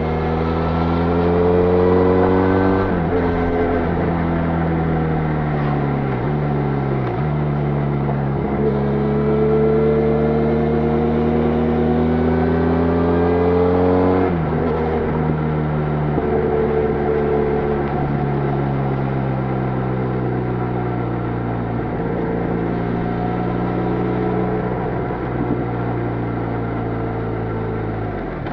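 Benelli Leoncino 500's parallel-twin engine through its stock exhaust, pulling up through the revs with quick drops in pitch at gear changes in the first half. About halfway through the revs fall sharply, then sink slowly in a long, steady drone as the bike rolls off the throttle.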